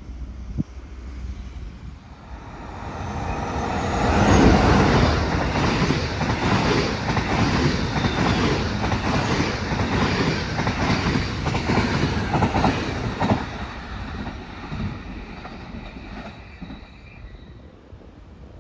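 A train passing at speed: it swells from about two seconds in and stays loud for about ten seconds, with rapid regular clatter of the wheels over the rails, then fades away.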